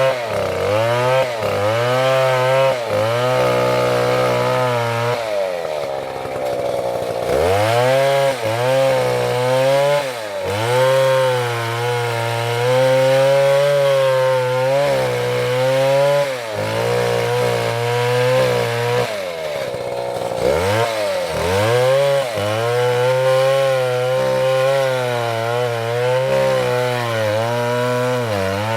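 Chainsaw cutting into a large tree trunk. The engine's pitch sags under load and climbs back again and again, and it drops much lower twice, about six and about nineteen seconds in, before revving up into the cut again.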